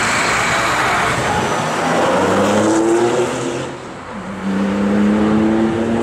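Lamborghini Aventador LP700-4's V12 engine accelerating past, loud. The revs climb, drop away briefly about four seconds in, then climb again.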